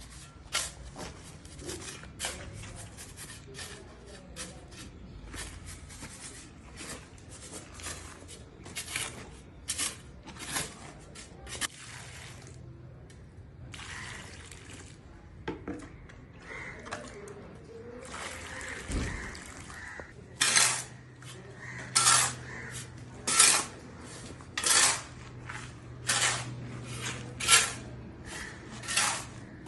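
A metal hand tool scraping and striking wet mortar or masonry in repeated short strokes, irregular at first and then louder and evenly spaced, about one every second and a half, from about two-thirds of the way in. A low steady hum comes in at the same point.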